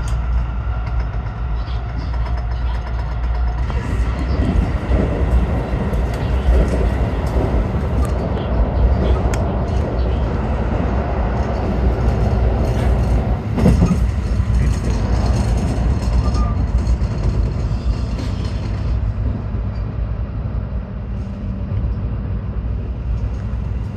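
A JR train's running noise heard from inside the carriage while travelling: a steady low rumble of wheels on rail. It grows louder for a stretch in the middle as the train crosses a river bridge, with one sharp knock about fourteen seconds in.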